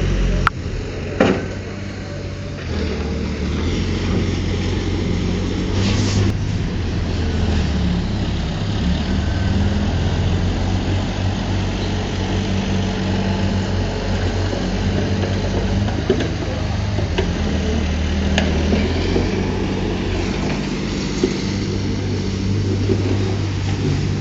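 Heavy diesel machinery running steadily with a deep, even engine hum, broken by a few sharp clanks in the first several seconds.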